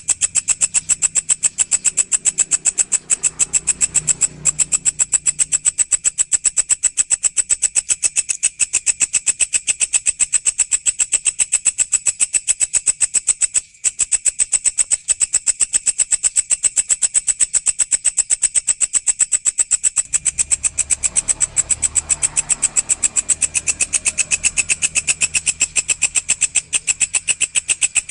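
A walang (grasshopper or katydid) stridulating: a high-pitched, rapid, even train of pulses that carries on without a break, with a brief dropout near the middle.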